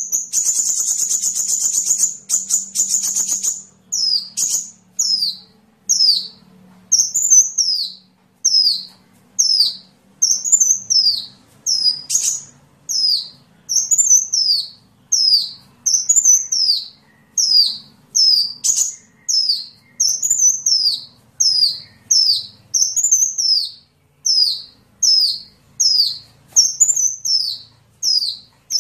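Sunbird (known locally as 'kolibri') singing. It opens with a fast, high trill lasting a few seconds, then gives a long series of high, downward-sweeping notes about once a second, some in quick pairs.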